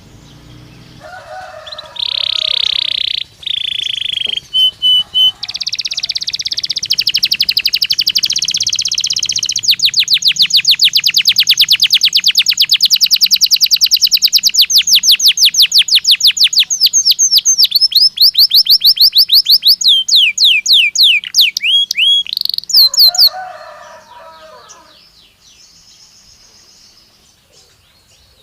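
Belgian canary singing one long song phrase of rolling, rapidly repeated trill notes, which changes to a faster run of notes near the end and then stops for several seconds.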